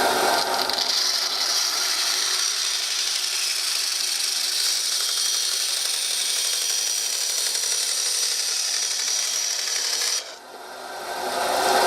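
A power tool cutting across a piece of plastic with a steady rasping grind. It stops about ten seconds in and starts up again near the end.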